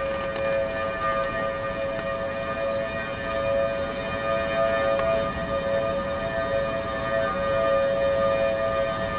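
Federal Signal Thunderbolt outdoor warning siren sounding a tornado warning. It holds a steady chord of pitches, and its level swells and dips slightly.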